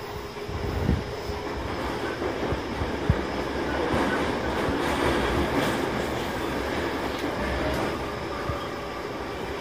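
Tobu 20070 series commuter electric train running between stations, heard from inside the carriage: a steady rumble of wheels on the track with two thumps in the first three seconds. The noise swells about halfway through, then eases.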